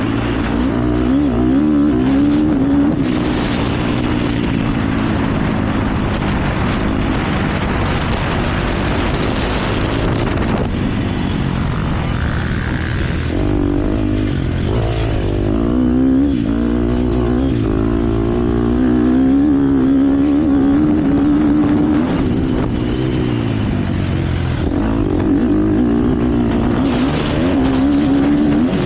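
KTM motocross bike's engine at race speed, its pitch rising and falling again and again as the throttle opens and closes and the rider shifts, with wind rushing past the microphone.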